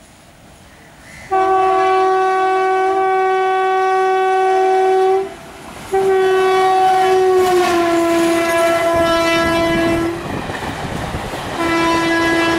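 Indian Railways locomotive horn sounding three long blasts. Partway through the second blast its pitch drops as the locomotive passes, and wheel-on-rail noise builds as the train goes by.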